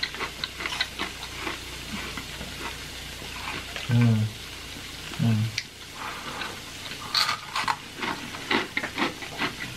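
Close-miked crunching and chewing of Takis and Flamin' Hot Cheetos, many short crackly crunches, with two brief hummed "mm" sounds about four and five seconds in.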